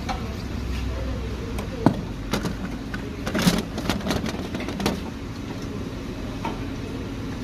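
Metal knocks and clinks of hand tools and parts while a car's damaged engine mount is being unbolted, a cluster of sharp strikes about two to five seconds in, over a steady low hum.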